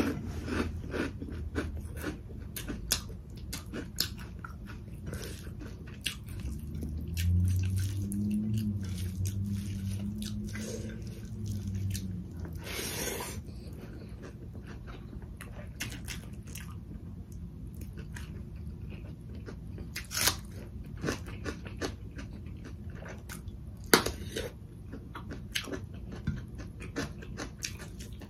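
Close-miked eating: chewing and wet mouth sounds with many short sharp clicks, and a low hum for a few seconds about a third of the way in.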